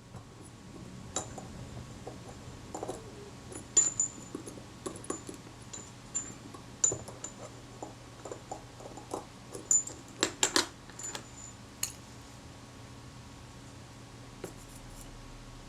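Small metal camera shutter parts and tools being handled, with irregular light clicks and clinks, a few sharper ones together about ten seconds in, then it goes quieter near the end.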